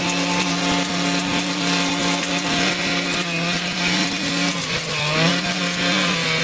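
Small petrol engine of a handheld power tool, such as a brush cutter or chainsaw, running at high speed while cutting through overgrowth. Its pitch dips briefly under load about five seconds in, then picks up again.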